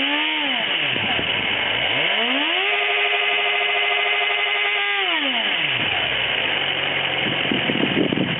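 2011 Suzuki GSX-R1000's inline-four engine through its stock exhaust, blipped briefly, then revved up and held high for about two seconds before dropping back to idle.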